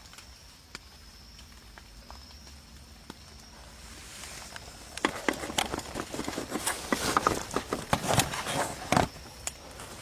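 Irregular rustling and crackling from someone moving about at the campsite. It starts as scattered faint clicks, turns loud from about five seconds in, and stops about nine seconds in.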